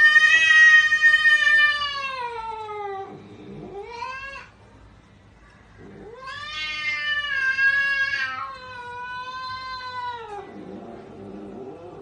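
Cat yowling in long, drawn-out calls. The first long yowl falls away about three seconds in, a short rising call follows near four seconds, and a second long yowl starts about six seconds in and drops off at around ten seconds.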